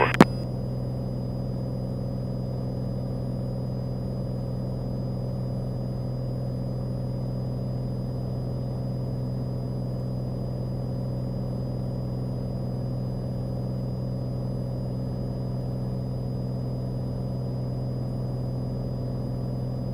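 Steady drone of a Cessna 182's piston engine and propeller in cruise-climb, heard in the cabin, with a faint high steady whine over it.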